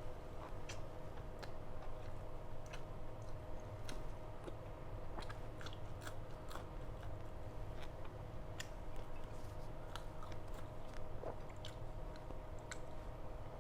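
Close-miked chewing and biting as a person eats mutton curry with roti and rice: irregular wet mouth clicks and smacks, over a steady low background hum.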